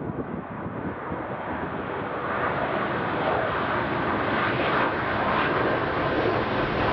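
Jet airliner engines, a dense steady roar that grows louder from about two seconds in as the aircraft draws nearer.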